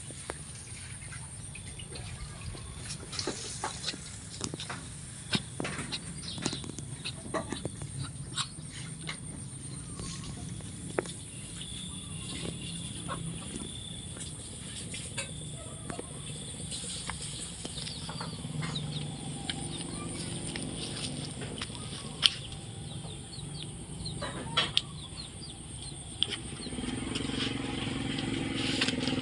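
Outdoor ambience: scattered sharp clicks and taps over a steady low hum, with animal calls.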